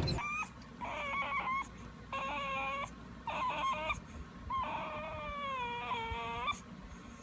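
Dog whining in high-pitched calls: three short whines, then a longer whine of about two seconds that falls in pitch.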